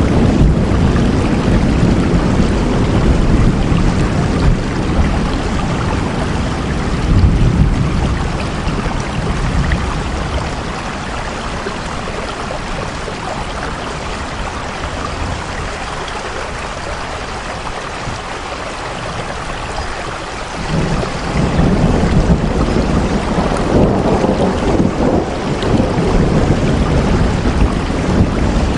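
Rain falling steadily over a deep low rumble, easing for several seconds in the middle and swelling again about two-thirds of the way through.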